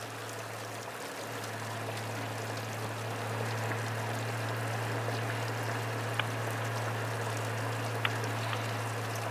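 Steady rush of wind and rain on a motorcycle rider's helmet microphone while riding, over a constant low engine drone, growing a little louder early on.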